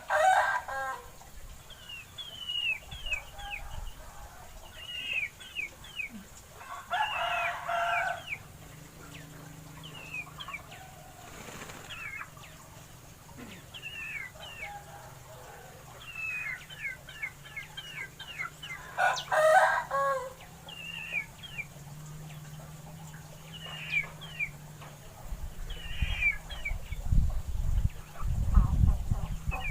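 A rooster crowing three times, each crow about a second long, over many short, high, falling chirps from small birds or chicks. Low thumps come near the end.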